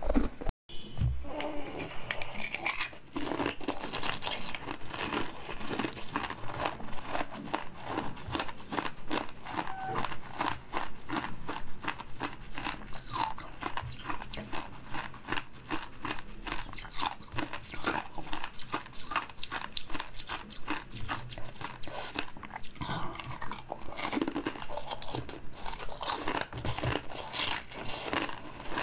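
Close-miked biting and chewing of a pink ring-shaped jelly sweet: a dense, continuous run of crunchy, crackling bites and mouth sounds, with a brief break about half a second in.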